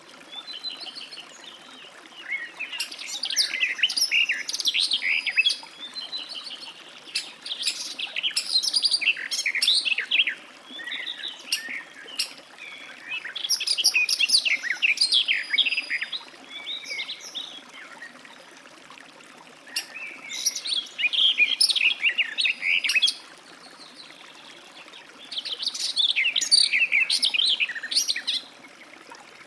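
Garden warbler singing: long, fast, warbling phrases of several seconds each, with short pauses between them.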